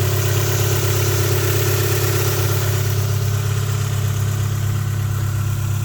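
Honda F23A 2.3-litre SOHC VTEC four-cylinder engine idling steadily at operating temperature, through a straight-piped exhaust with no catalytic converter and a single muffler can.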